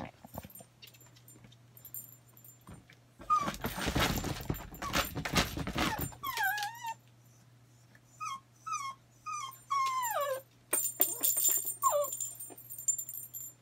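Small dog whining in a string of short, high calls that fall in pitch, ending in one longer falling whine about ten seconds in. Loud rustling and scuffling comes just before the whines, and a few knocks follow them.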